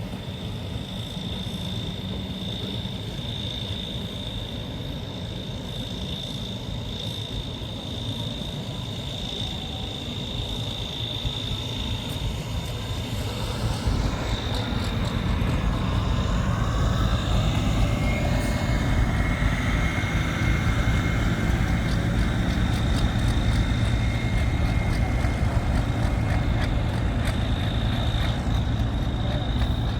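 Tractor pulling engine running hard, a steady heavy rumble with a high whine. The engine gets louder about halfway through, with a rising whine as it comes closer or works harder.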